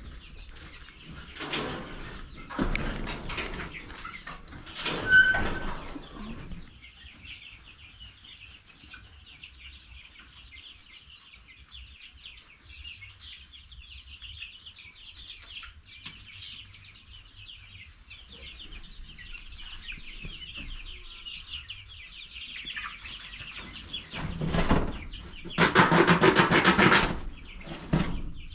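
A flock of young chicks peeping continuously. There are some clattering handling noises in the first few seconds, and a loud burst of noise near the end.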